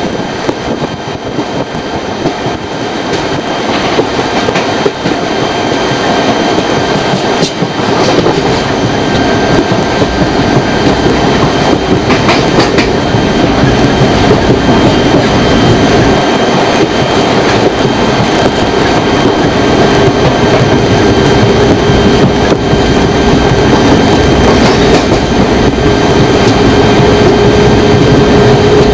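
Passenger train running along the track, heard from on board: a loud, steady rumble of wheels on rails with occasional clicks. It grows louder over the first several seconds, and a steady hum comes up near the end.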